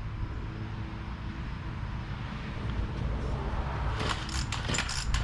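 Troy-Bilt TB225 tiller's small engine idling steadily just after a cold start. A quick run of sharp clicks comes near the end.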